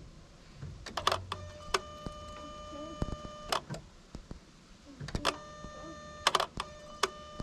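Car ignition switched on and off twice to prime the fuel system. Each time there are relay clicks and a steady electronic warning chime tone lasting about two seconds, then clicks again as it switches off. A low hum early on is the fuel pump building pressure.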